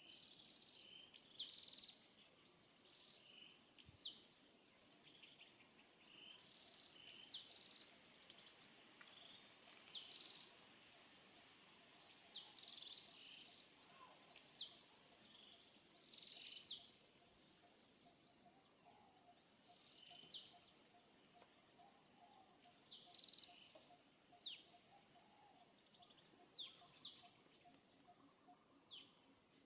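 Faint repeated short bird calls, one every second or two. Each is a quick hooked chirp, over a soft outdoor background hiss.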